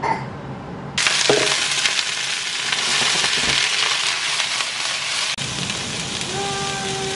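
Cauliflower florets dropped into hot oil in a nonstick frying pan: a loud sizzle starts suddenly about a second in and keeps going steadily. A steady tone joins it near the end.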